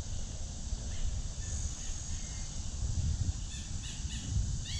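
Birds chirping outdoors in a quick series of short, rising notes that begin past the middle, over a steady high hiss and a low rumble.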